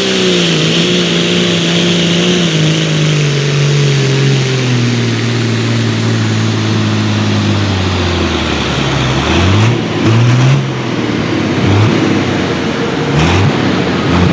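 Pulling tractor's engine running, its speed falling steadily over about nine seconds while a high whistle fades with it. It then gives several short revs of the throttle.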